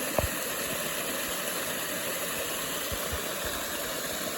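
Steady rushing hiss of a small waterfall, with a brief low thump about a quarter second in and two softer thumps around three seconds in.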